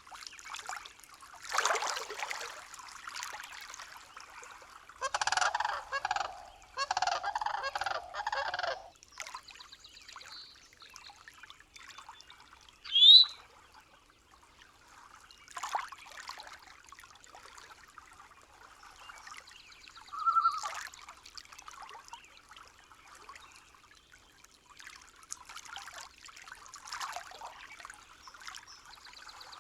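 Nature soundscape of scattered animal calls: two honking calls a little over a second apart about five seconds in, and a short rising whistle, the loudest sound, a few seconds later. Fainter calls come and go over a faint trickle of water.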